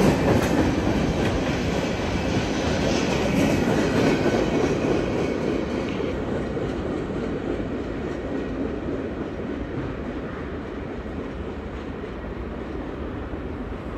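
Long Island Rail Road work train of flatcars rolling along the rails, its wheels clicking over the rail joints. The rumble fades steadily as the train moves away.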